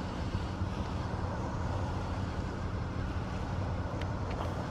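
Motorcycle's V4 engine running steadily, a low even hum with road and wind noise around the helmet, with a couple of faint ticks near the end.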